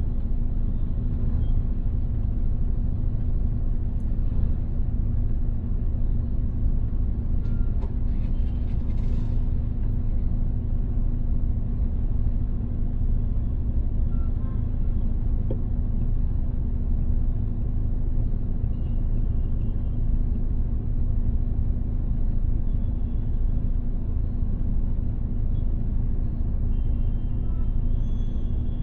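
Steady low rumble of a car driving: engine and road noise, unbroken throughout.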